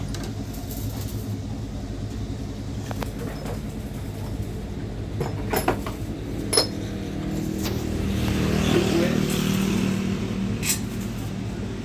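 A motor vehicle's engine running steadily, with a few sharp clicks about halfway through. Near the end the engine and road noise grow louder, as a vehicle draws close.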